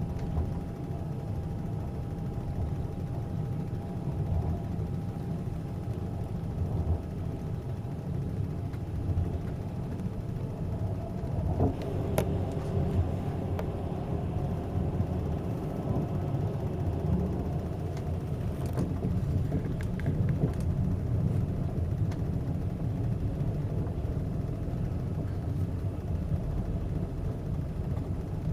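Passenger train running, heard from inside the carriage: a steady low rumble, with a brief clatter about twelve seconds in.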